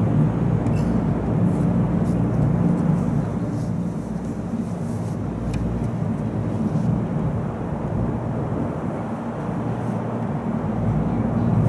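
Steady low rumble of outdoor background noise that swells and eases slightly.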